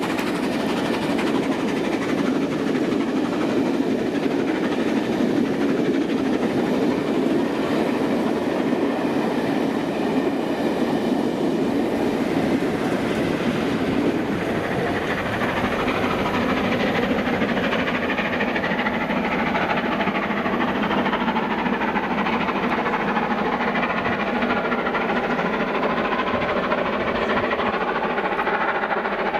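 Passenger train of coaches passing close by, the wheels rumbling and clacking over the rail joints. About halfway through, the diesel locomotive on the rear passes and its engine sound joins the wheel noise.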